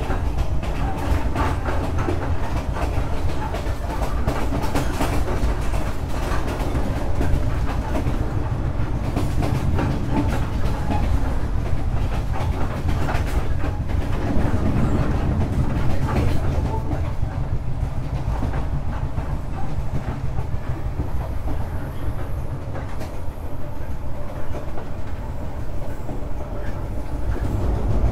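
Vietnam Railways SE19 passenger train running, heard from on board: a steady low rumble of wheels on the rails, with scattered clicks throughout.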